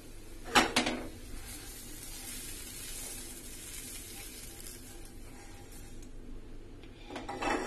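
Oil sizzling under a moong dal chilla (lentil pancake) in a frying pan with the gas just turned off. A sharp knock of cookware sounds about half a second in, and more clattering comes near the end.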